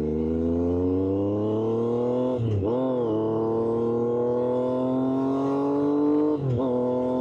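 Triumph Street Triple 765RS inline-triple engine through an SC-Project exhaust, pulling under acceleration with its pitch rising steadily. It shifts up twice, about two and a half seconds in and again near the end, each time dropping in pitch before climbing again.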